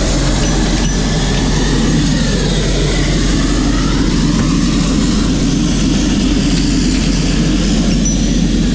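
A heavy engine running steadily with a loud, even noise.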